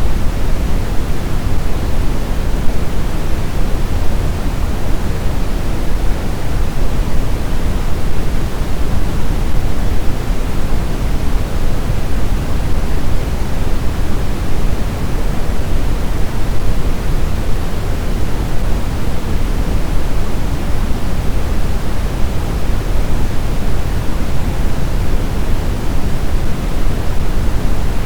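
Blizzard wind blowing steadily, an even noise heaviest in the low end, with no distinct gusts or howling.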